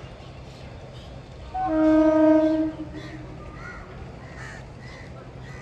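A train horn sounds one steady blast of a little over a second, about one and a half seconds in. Birds call faintly around it.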